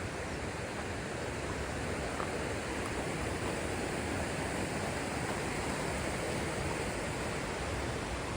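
River rapids rushing: a steady, even noise of fast-flowing water.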